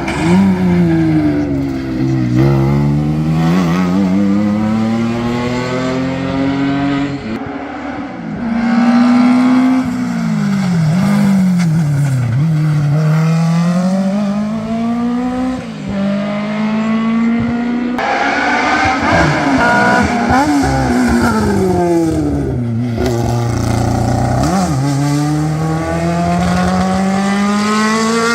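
Historic racing car engines driven hard, revs climbing through the gears and dropping at each shift, with dips and quick rises where they brake and change down for bends. The sound switches abruptly a few times from one pass to another.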